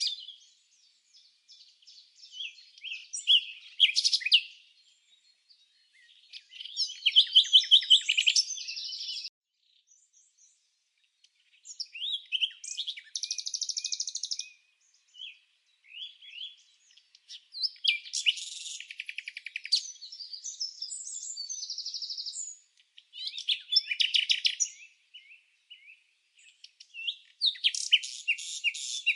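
Songbird singing in repeated phrases of quick high chirps and trills. Each phrase lasts a second or few and is followed by a short pause.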